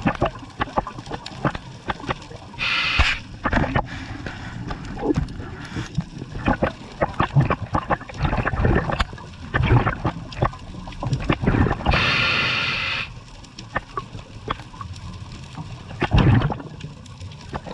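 Underwater sound of a scuba dive: a diver's regulator exhausting bubbles in bursts about a second long, clearest about 3 seconds in and again about 12 seconds in. Constant crackling and clicking runs under it all.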